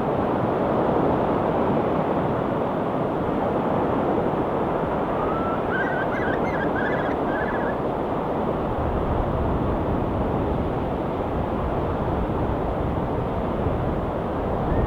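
Steady wash of ocean waves breaking on a rocky shore. About six seconds in, a seagull gives a brief run of short calls. A low rumble strengthens in the second half.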